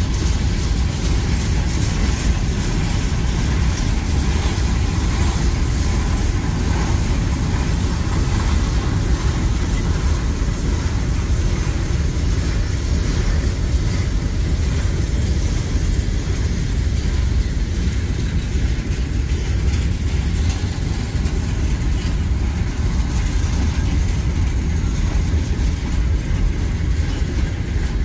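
Freight train of gravel hopper cars rolling past at steady speed: a continuous, even rumble of steel wheels on the rails, heaviest in the bass.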